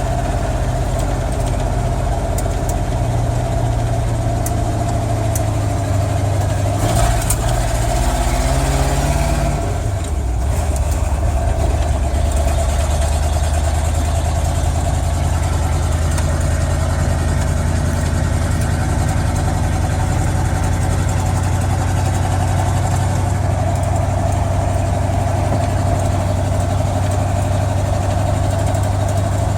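Pickup truck's engine running steadily while driving; its pitch drops about ten seconds in and then holds at the lower note.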